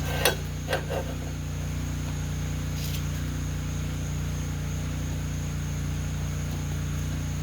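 Steady low hum of a running machine, with a few light knocks in the first second and a faint steady high-pitched whine throughout.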